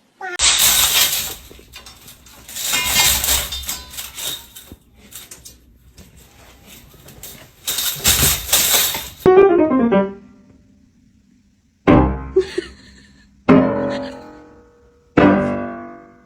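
Loud bursts of rustling, clattering noise, followed by piano keys struck: a quick run of falling notes, then three separate chords about a second and a half apart, each ringing and dying away.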